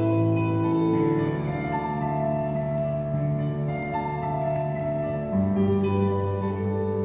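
Choral music with piano accompaniment: slow, held chords that shift to new harmonies about a second in and again near the end.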